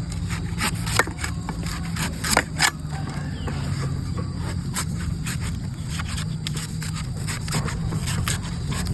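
Green coconut being cut and scraped with a blade: irregular sharp strokes and scrapes, over a steady low hum.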